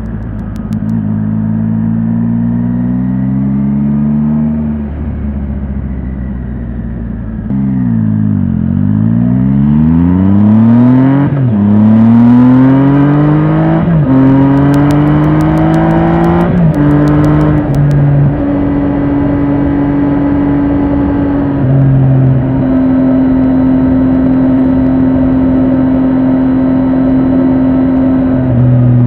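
Triumph Tiger 800 XRT's three-cylinder engine on the move: it slows with falling revs, then pulls hard through three up-shifts, the pitch rising and dropping sharply at each gear change. It settles into steady cruising for the second half.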